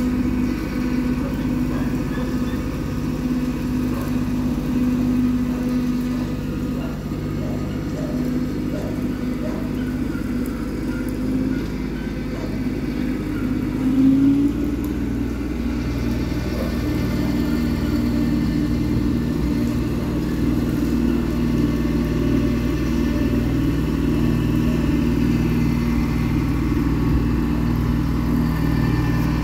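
Kubota 2501 compact tractor's diesel engine running steadily on a test run of the bush hog with its newly changed blades. About halfway through there is a brief louder surge, and then the engine's tone shifts and stays at the new pitch.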